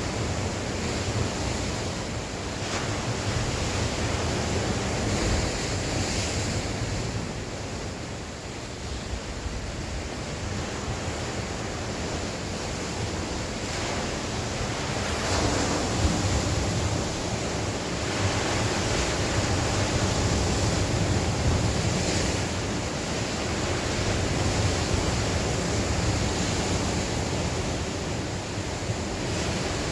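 Sea waves breaking and washing on the shore, swelling and easing every few seconds, with wind buffeting the microphone as a low rumble.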